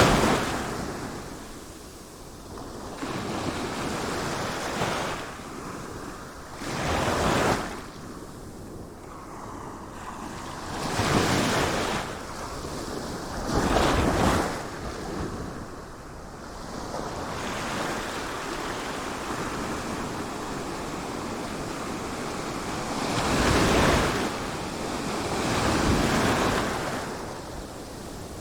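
Sea waves surging and breaking, each swell of rushing water rising and falling over a second or two, with a steady wash between them.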